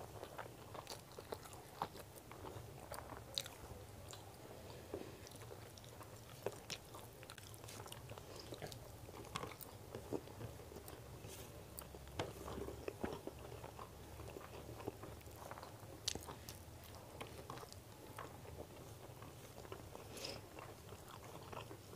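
Close-miked chewing of chicken biryani eaten by hand: irregular wet mouth clicks and smacks as the rice and chicken are chewed.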